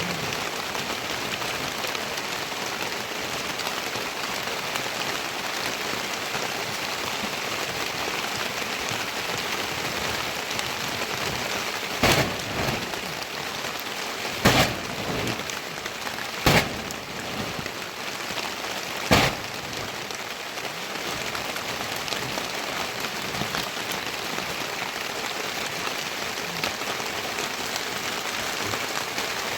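Steady heavy rain falling on surfaces. Near the middle come four sharp, loud knocks, about two seconds apart.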